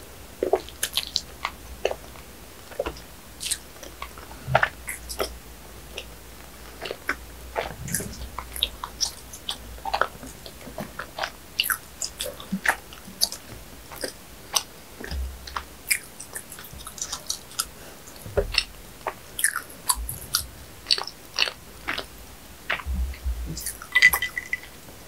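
Close-miked chewing of a chocolate bread roll: soft, moist bites with many small sharp mouth clicks, coming in quick irregular clusters.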